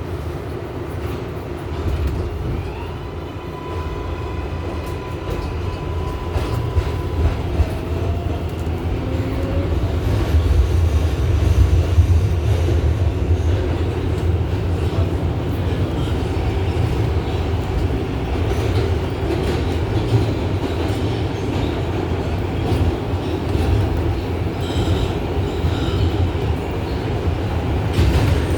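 R188 subway train running through the tunnel, heard from inside the car: a steady heavy rumble of wheels on the rails with some clickety-clack. In the first several seconds a whine from the traction motors rises in pitch as the train gathers speed.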